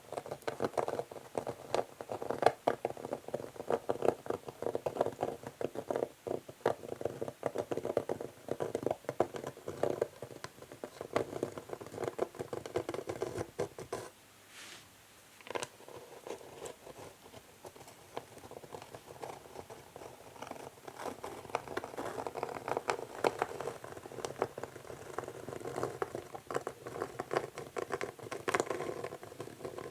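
Natural fingernails scratching and scraping across an old wooden chess board in quick, dense strokes, with small ticks of the nails on the wood. It drops away briefly about halfway through and then resumes.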